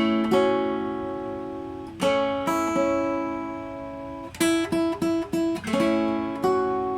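Acoustic guitar fingerpicked in a chord-melody style: chords plucked and left ringing, with a quick run of repeated plucks on one string a little past the middle before further chords ring out.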